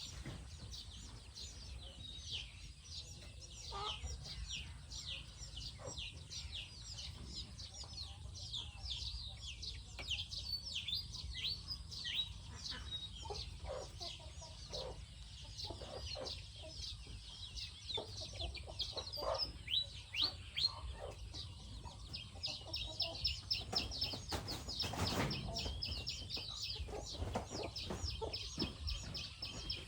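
Chickens calling: a steady, dense chatter of short, high, falling peeps, with occasional lower clucks. A brief rustling noise comes about 25 seconds in.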